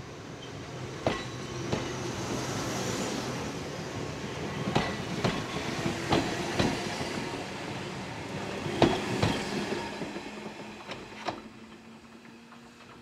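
Former Kintetsu 16000 series electric train passing close by, its wheels clacking over rail joints in pairs and its running noise swelling, then fading away near the end.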